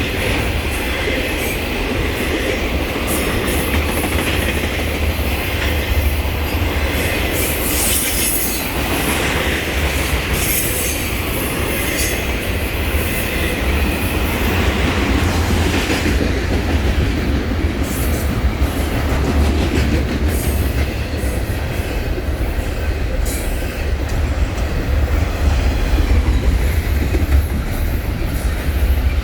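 Train cars rolling past on the rails: a steady low rumble with wheels clicking over rail joints and intermittent high-pitched wheel squeal.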